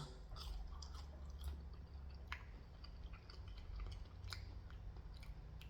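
Close-up chewing of Culver's cheese curds: quiet mouth sounds with scattered small clicks.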